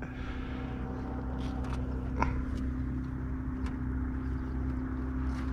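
Old Mercury 9.8 two-stroke outboard idling steadily, with a few light knocks scattered through it from the landed sucker fish flopping in the boat.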